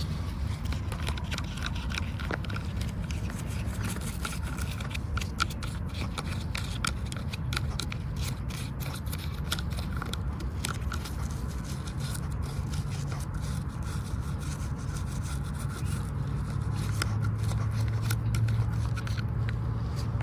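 Scrubbing and scraping on a miniature toy car's body, with many small clicks, over a steady low hum.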